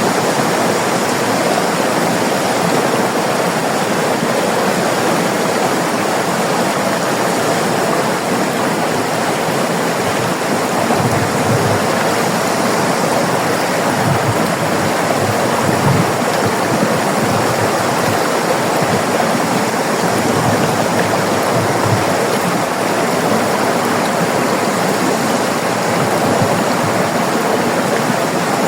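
River water flowing and rushing over rocks, a steady dense wash of water noise.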